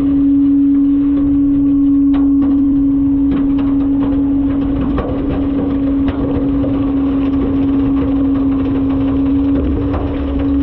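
Front-load garbage truck running: a loud, steady hum at one unchanging pitch over a low rumble, with scattered light clicks and knocks.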